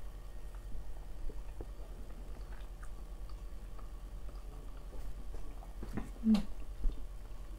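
A person chewing a mouthful of food, with soft wet mouth clicks, and one brief louder mouth sound about six seconds in.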